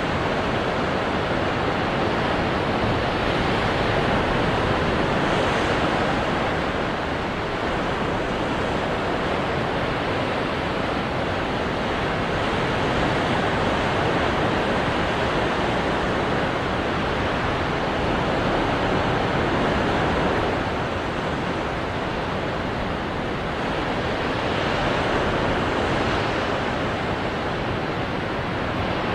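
Ocean surf breaking against rocks: a continuous wash of water noise that swells and eases every several seconds as waves come in.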